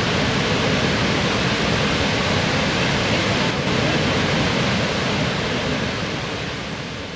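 Waterfall and rushing river water, a loud steady roar that fades out over the last couple of seconds.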